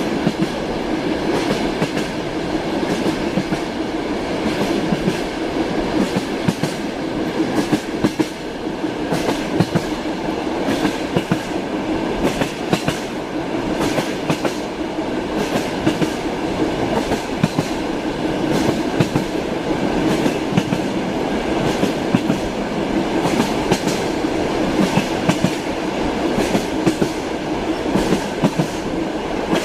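Train running steadily on the rails: a continuous rumble with the wheels clattering over the rail joints in repeated short clicks.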